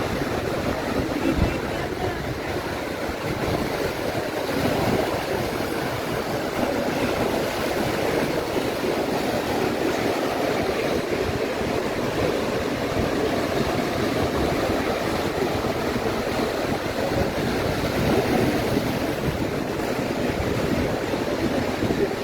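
Atlantic surf washing on the beach, with wind on the microphone: a steady, unbroken rushing noise.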